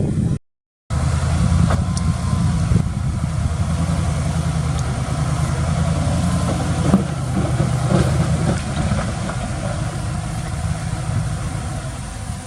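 Heavy diesel engine of a work machine running steadily at low revs, with a brief total dropout about half a second in and a few light knocks around the middle.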